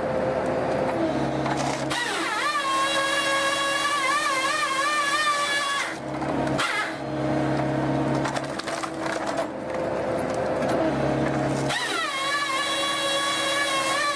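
Firewood processor running with a steady engine hum. Twice its saw blade cuts into a log with a high whine that drops in pitch as the blade loads up, then wavers: once about two seconds in for roughly four seconds, and again near the end.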